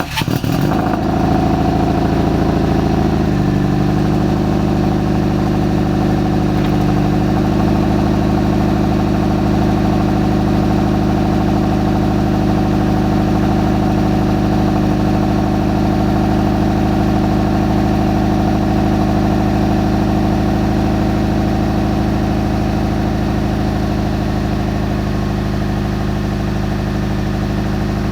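Subaru Legacy GT's turbocharged 2.5-litre flat-four running through Invidia equal-length headers, catless up-pipe and downpipe and an OBX cat-back exhaust, idling just after a cold start. The fast idle steps down about three seconds in and settles again around seven seconds, then holds a steady idle.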